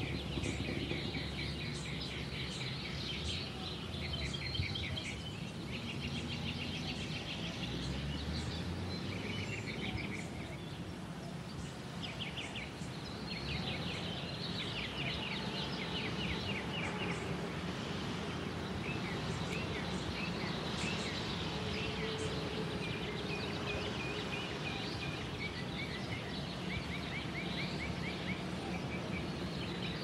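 Canyon ambience: a steady low background rumble with distant birds calling again and again in rapid runs of short high notes and trills.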